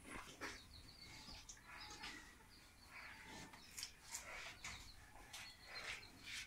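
Faint, scattered bird chirps over quiet rural background noise.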